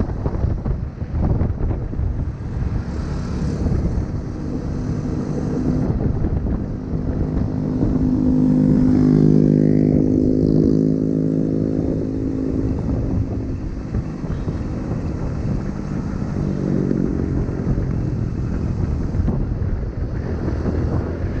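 Wind buffeting the microphone while riding a motorbike, with a steady low rumble. Near the middle an engine's pitched hum swells and then fades.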